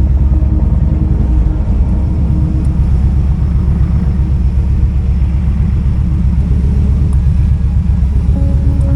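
Kawasaki Vulcan 2000's big V-twin engine running with a steady, loud, low rumble.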